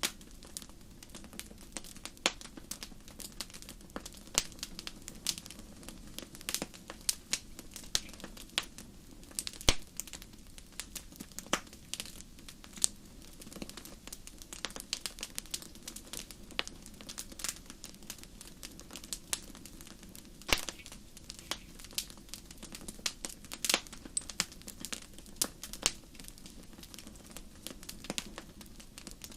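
Wood fire crackling in a fireplace: irregular snaps and pops, a few of them sharp and loud, over a soft steady low rumble of the flames.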